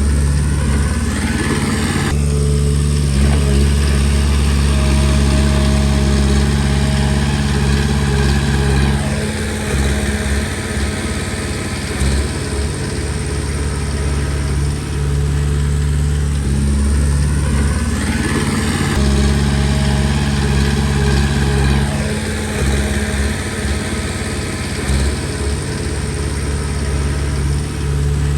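Komatsu D20P bulldozer's diesel engine running under working load. Its pitch rises about a second in and again about 18 seconds in, and drops back around 9 and 22 seconds, as the machine pushes and eases off.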